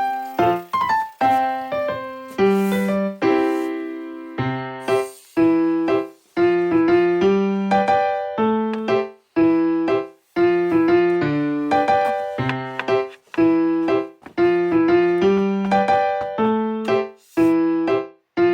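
Background piano music: a light melody of struck notes that ring and fade, in a steady rhythm.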